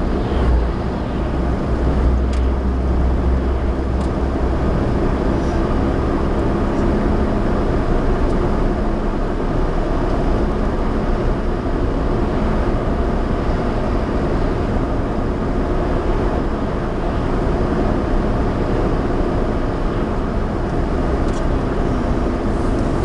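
Suzuki Alto 4WD kei car driving, heard from inside the cabin: a steady rumble of engine and tyres on the road, slightly stronger in the first few seconds.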